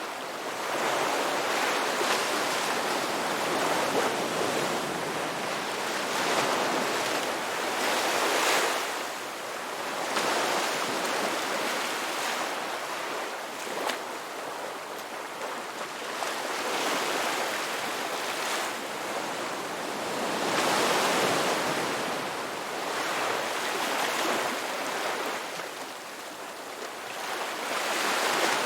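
Ocean surf: waves breaking and washing in a steady hiss that swells and ebbs every few seconds.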